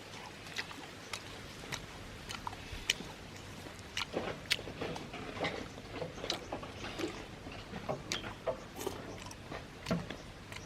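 A person eating close to the microphone: irregular wet chewing clicks and smacks, growing busier about four seconds in.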